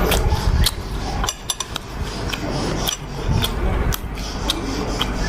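Eating utensils clicking and clinking against a bowl or dish during a meal, a scattering of short, sharp taps.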